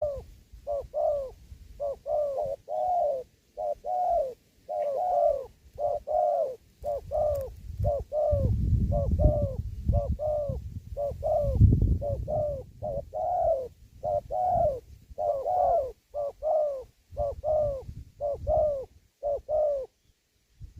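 Spotted dove cooing over and over in quick repeated coo phrases, stopping shortly before the end. A low rumble runs underneath for a few seconds in the middle.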